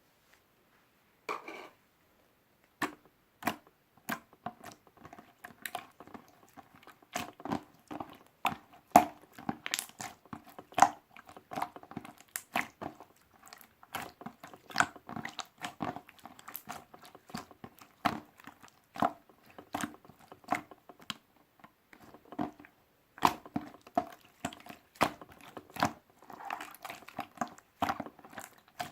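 Irregular series of crisp clicks and crunches, a few a second, each carrying a short ringing tone; sparse at first, then steady from about three seconds in.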